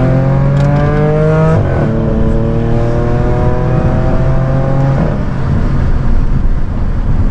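Car engine accelerating hard through the gears: the revs climb, drop with an upshift just before two seconds in, climb again, and drop with another upshift about five seconds in.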